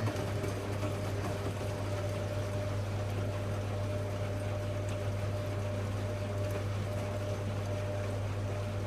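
Hoover Logic A3790 washing machine running mid-cycle: a steady low hum with a thin steady whine above it, over a faint wash of water.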